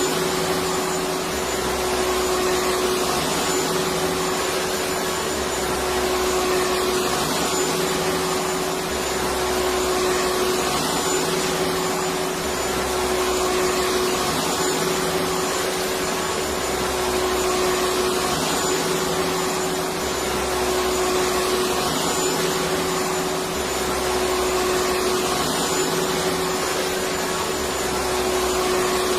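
Electric vacuum cleaner motor running continuously: a steady whooshing whir with a constant hum, swelling slightly every few seconds in a repeating pattern.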